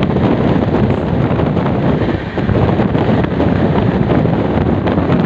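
Wind rushing over the microphone at an open window of the Malwa Express running fast, with the train's steady running noise underneath.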